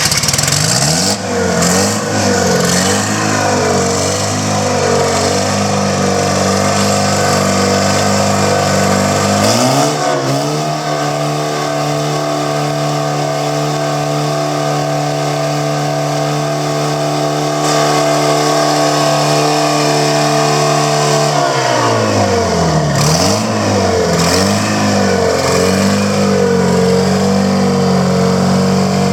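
Detroit Diesel 4-53 four-cylinder two-stroke diesel engine running. It turns at a low speed with a wavering pitch, is revved up to a steady higher speed about ten seconds in, holds there, and drops back to low speed about twenty-two seconds in.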